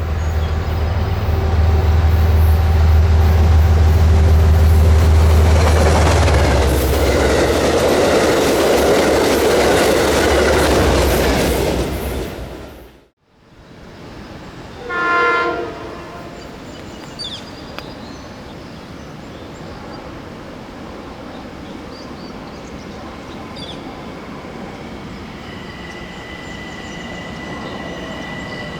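An Amtrak train passing close at speed: a loud low locomotive drone, then the rush of wheels and cars, cut off abruptly about 13 s in. A Metro-North electric train then sounds a short horn blast and approaches with a quieter steady rumble, and a thin high whine rises near the end.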